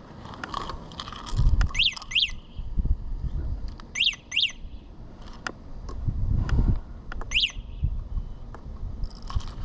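A small bird chirping: three pairs of quick chirps that sweep down and back up in pitch, heard over uneven low rumbles of wind on the microphone.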